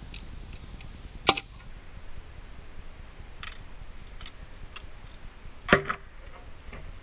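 A full soda can struck and punched through with one sharp hit near the end, bursting open; a smaller sharp click comes about a second in, with a few faint ticks between.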